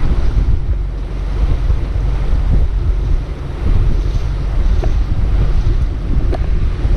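Wind buffeting the microphone on a motorboat under way: a heavy low rumble that rises and falls, over the steady noise of the boat and the water rushing past.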